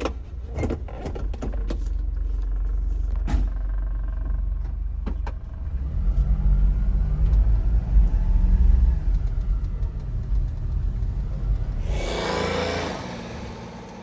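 Daihatsu Hijet mini truck's small engine running with a steady low rumble. It gets louder for a few seconds in the middle, and there are several clicks near the start and a short rush of noise near the end.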